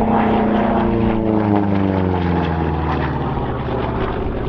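P-47 Thunderbolt's radial piston engine and propeller in a low, loud flypast. The engine note drops steadily in pitch as the fighter passes and draws away.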